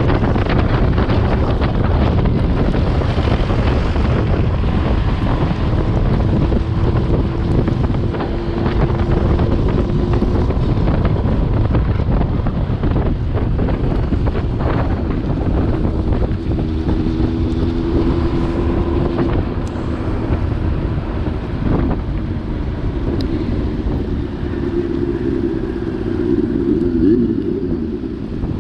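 A vehicle engine running steadily, its pitch shifting now and then, under heavy wind noise on the microphone.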